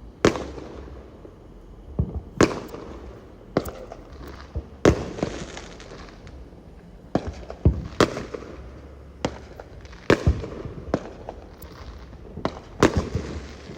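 Fireworks going off all around: about a dozen sharp bangs at irregular intervals, some loud and some fainter, each trailing off in an echoing rumble.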